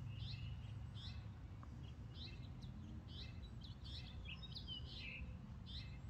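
Small birds chirping: short high chirps repeating every half second to a second, over a faint steady low rumble of background noise.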